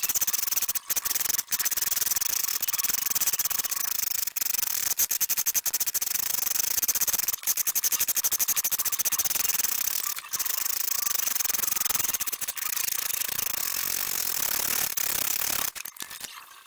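Rotary tool with a burr grinding notches into a steel knife blade: a steady, high grinding, broken by a few short pauses where the bit is lifted off. It stops shortly before the end.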